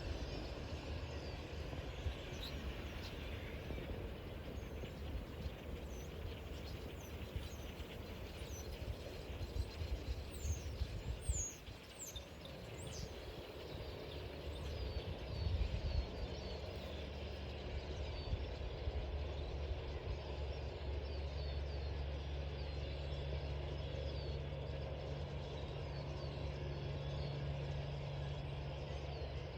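Small birds give scattered short, high, falling chirps over a low engine rumble. From about halfway the rumble settles into a steady low hum.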